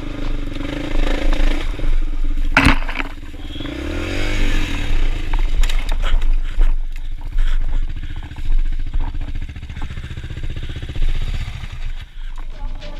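Dirt bike engine running on a trail, its revs rising and falling as it is ridden, with a sharp knock about two and a half seconds in and some scraping and clattering over the ground.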